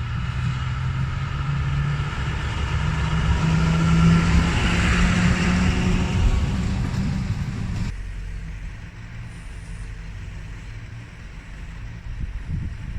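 Diesel train engine running loud, its pitch rising slightly and loudest about four to six seconds in. The sound drops abruptly about eight seconds in to a quieter, steady engine hum.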